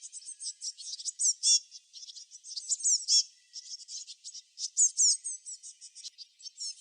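Songbirds chirping in a rapid, high-pitched chatter of short chirps and quick falling notes, with louder calls about one and a half, three and five seconds in.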